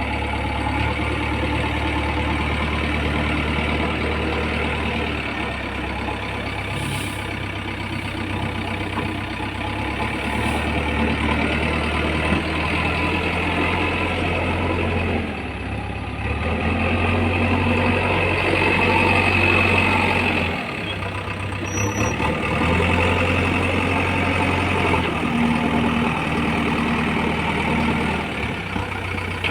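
JCB 3DX backhoe loader's diesel engine running steadily. Its note rises and grows louder twice, about halfway through and again a few seconds later, before settling back.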